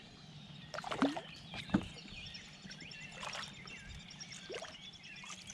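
A few light knocks on a kayak, about a second in and again shortly after, with faint bird chirps in the background.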